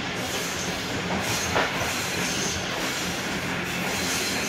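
Passenger train coach running along the track, heard from inside the coach: a steady rumble and rush of wheels on rail, with a single sharp click about a second and a half in.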